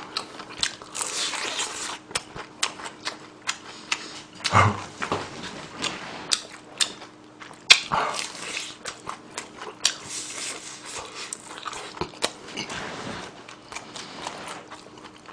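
Close-miked mouth sounds of someone eating fried chicken drumsticks: biting and chewing, with many short irregular clicks and smacks.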